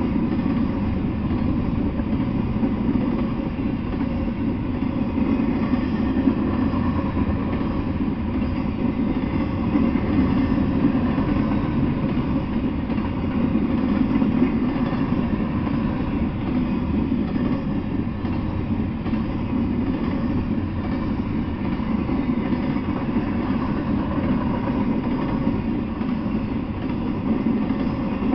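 Double-stack intermodal freight train rolling past at steady speed: a continuous rumble of steel wheels on the rails and the cars moving over the track.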